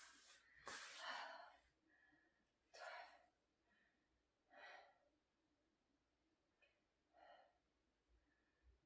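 A woman's heavy breathing as she works through a core exercise: a string of audible breaths a second or two apart, the first ones the loudest.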